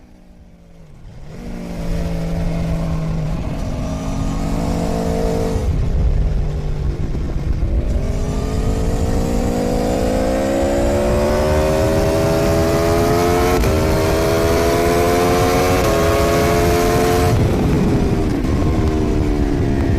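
Aprilia Tuono V4's V4 engine heard from the rider's seat, picking up about a second and a half in and accelerating hard, its pitch rising through the revs with short steps at each upshift. It dips and falls around six to eight seconds in as the throttle is rolled off, and drops sharply about seventeen seconds in before pulling again.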